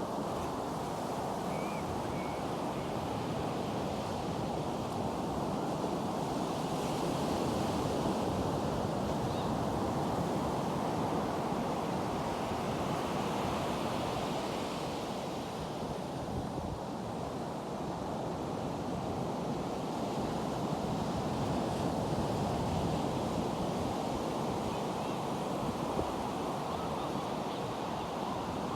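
Ocean surf washing on a beach, a steady rush with waves swelling now and then, and wind on the microphone.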